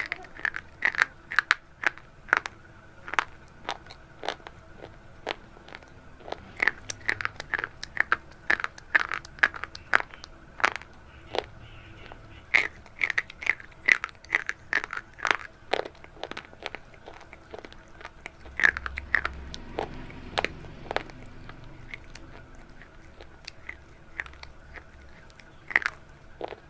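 Close-miked crunching of something brittle: a rapid, irregular run of sharp crunches that thins out after about sixteen seconds, with only a few crunches near the end.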